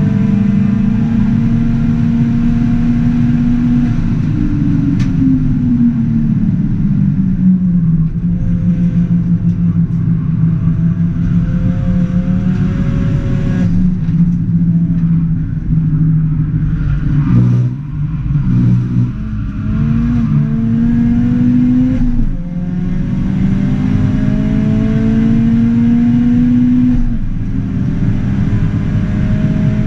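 Ford Fiesta ST180's 1.6 EcoBoost turbocharged four-cylinder engine under hard track driving, heard from inside the cabin. Its pitch climbs slowly through long pulls and drops sharply at gear changes and braking, with a choppy spell of lifts and downshifts a little past halfway.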